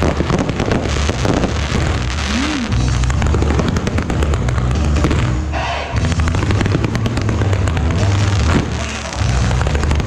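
Aerial fireworks launching and bursting overhead: a dense, continuous run of crackles, pops and bangs that thins briefly about six seconds in.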